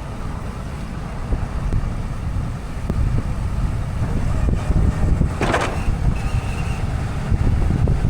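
Diesel pickup truck running with a steady low rumble. About five and a half seconds in there is a brief sharp noisy sound.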